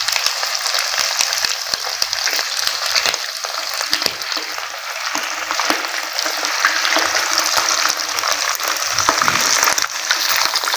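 Potato-and-mince kababs sizzling steadily as they shallow-fry in hot oil in a non-stick pan, with a silicone spatula scraping and clicking against the pan as the kababs are turned over to fry the second side.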